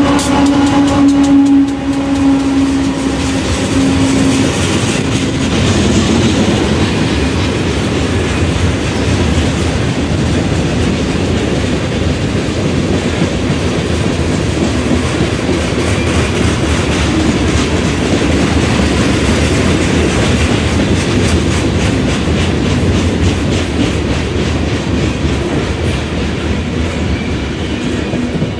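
Freight cars of a mixed manifest train (tank cars, flatcars, boxcars) rolling past on the rails: a steady heavy rumble of steel wheels with a repeated clickety-clack over the rail joints. For the first four seconds or so a steady hum from the departing diesel locomotives runs under it, then it is gone.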